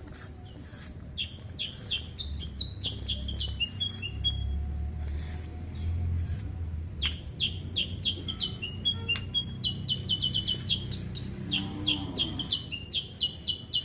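A bird calling in quick runs of short, high, falling chirps, several a second, with a pause in the middle, over a low rumble.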